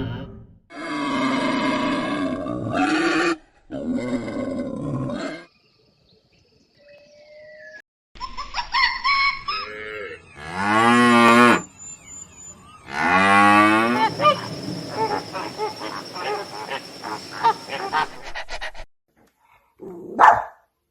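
A series of loud, pitched animal calls, each lasting one to several seconds, with short silences between them; some calls slide up and down in pitch.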